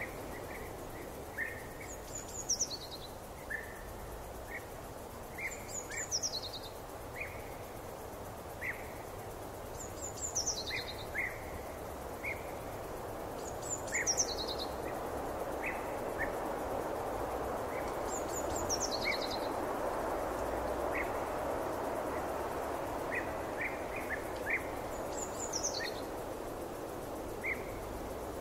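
Forest ambience: a songbird repeats a short, high, falling song phrase six times, a few seconds apart, while other short bird chirps come and go. Beneath them runs a steady background noise that swells in the middle.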